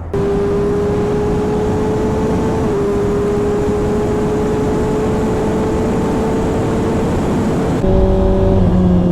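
Kawasaki ZX-6R sport bike's inline-four engine running at a steady high pitch that creeps slowly upward, under the rush of wind on the microphone. Near the end the engine note changes abruptly to a lower pitch.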